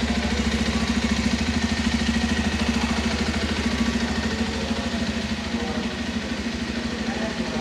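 Bajaj Pulsar 125's single-cylinder engine idling steadily, its exhaust giving an even, rapid pulse.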